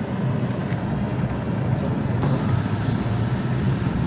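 Steady low drone of a car's engine and tyres, heard from inside the moving car.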